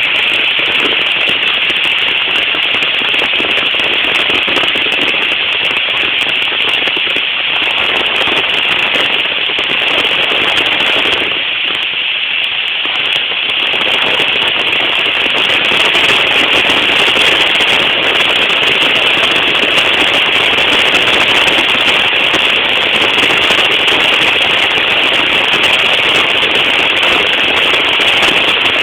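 Heavy rain falling: a loud, steady, dense crackling patter that eases slightly for a couple of seconds about twelve seconds in.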